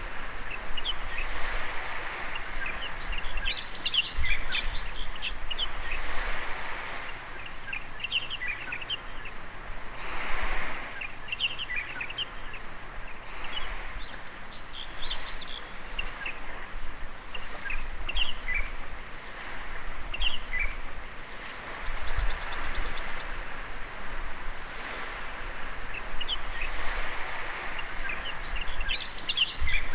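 Small waves washing onto a beach, the hiss swelling and fading every several seconds, while small birds chirp throughout, with one quick run of rapid notes a little past the middle.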